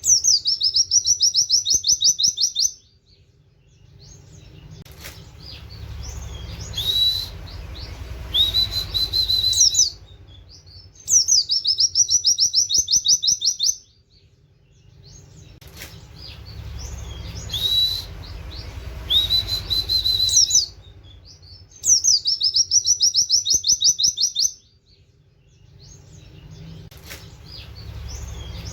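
A pleci (white-eye) singing in 'nembak' style: bursts of rapid, repeated high 'wit wit' notes, each burst lasting two to three seconds, often led in by a rising whistled note, and repeated about six times with quieter pauses between. A low hum sits under the pauses.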